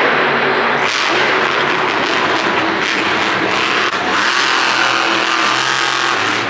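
Monster truck engine revving hard at high throttle, loud and sustained.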